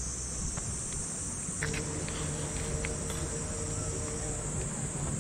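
Insects shrilling steadily in a high, even buzz, with a few faint clicks and a low steady hum joining about a second and a half in.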